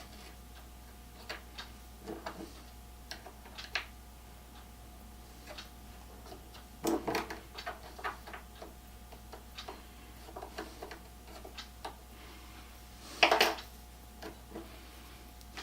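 Scattered light clicks and knocks of caster hardware and tools being handled on a wooden tool box base, with two louder knocks about seven and thirteen seconds in.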